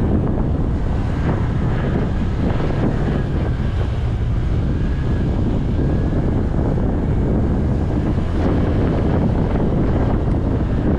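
Steady wind noise buffeting a GoPro's microphone as a motorcycle rides along, with the bike's running sound mixed in underneath.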